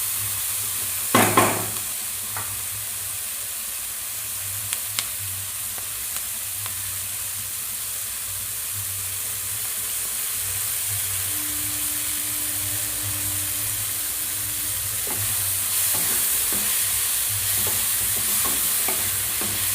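Chopped onion, capsicum and tomato with spices sizzling steadily in oil in a kadai. A spatula knocks loudly against the pan about a second in, and stirring clinks come again now and then, most often near the end.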